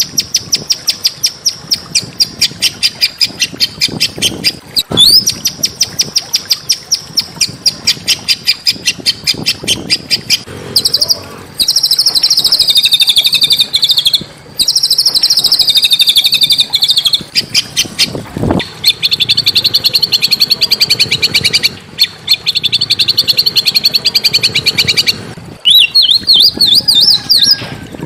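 Small songbird singing long, rapid trills of high repeated notes, broken by a few brief pauses, and ending in a run of quick rising whistles.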